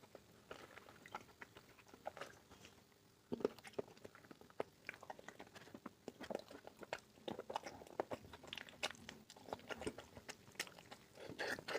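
A person chewing and biting mutton curry with rice, with irregular mouth clicks and smacks.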